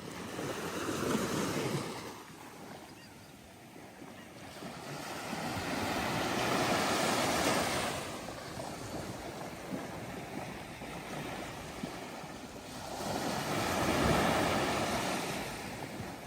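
Ocean waves breaking and washing up on a sandy beach, rising and falling three times, several seconds apart.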